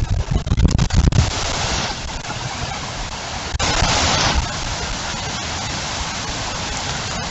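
Heavy rain pouring in a windstorm, with low wind rumble on the microphone in the first second and a brief louder surge about three and a half seconds in.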